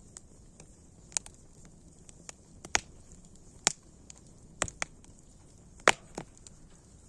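Wood fire crackling: irregular sharp pops and snaps, a few of them loud, over a faint steady hiss.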